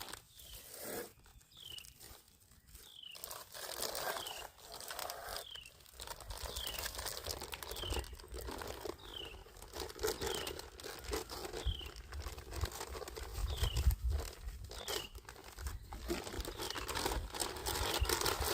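Irregular crunching and scraping from hand work in gritty material, with a bird's short falling chirp repeating about once a second and a low rumble from about a third of the way in.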